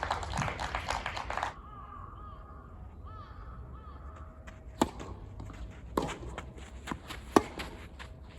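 Tennis ball struck with rackets during a rally: three sharp hits about a second and a quarter apart, with fainter ball bounces between. The rally is preceded by a burst of clapping in the first second and a half.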